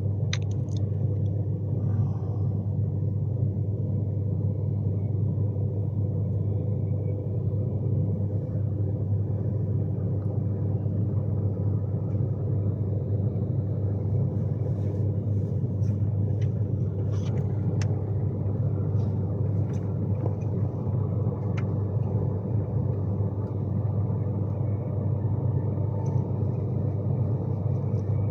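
Steady running rumble of an Avanti West Coast Class 390 Pendolino heard from inside its passenger saloon, with a few faint steady tones over it and occasional faint clicks.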